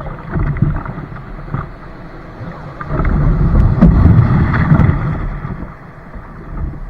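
Wind rumbling on the microphone, with water noise around a kayak; it swells for a couple of seconds about three seconds in.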